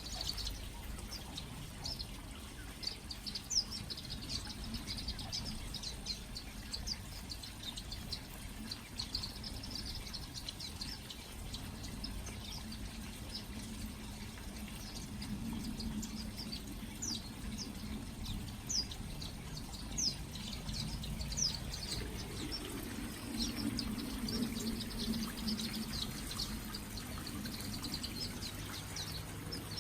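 A flock of small aviary finches and waxbills chirping: many short, high, quick calls overlapping throughout, over a faint steady background with a low hum that swells for a few seconds in the middle and again past the twenty-second mark.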